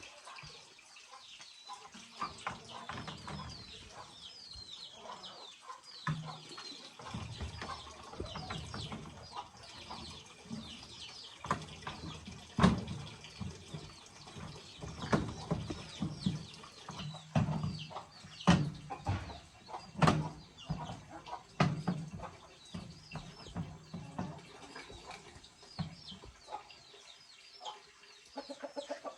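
Chickens clucking, with many short, high, falling peeps like chicks, running through most of the stretch. Several sharp knocks and clatters come over them, the loudest about halfway through.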